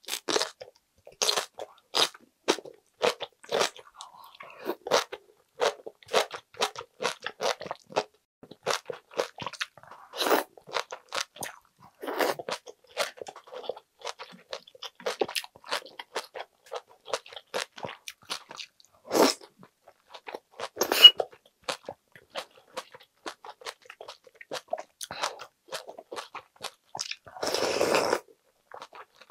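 Close-miked chewing of aged kimchi: crisp, wet crunches, roughly one or two a second. Near the end, a longer slurp of soup broth from a wooden spoon.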